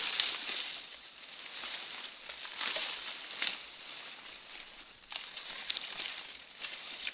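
Dry maize leaves, stalks and husks rustling and crackling as the corn is harvested and handled, with scattered sharp snaps and crackles.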